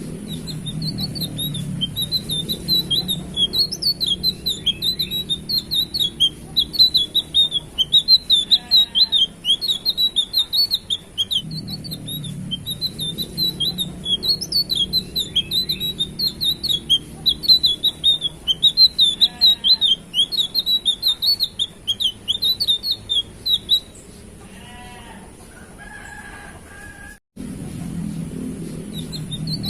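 Tledekan biru, a blue flycatcher, singing loudly: a fast, continuous run of high twittering, warbling chirps. The song breaks off about 24 s in, with only a few lower trilled calls, and starts again just before the end.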